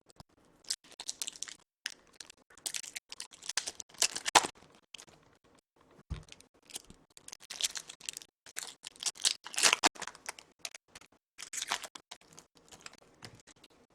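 Foil trading card pack wrappers crinkling and tearing and cards being handled, in irregular short rustles and crackles.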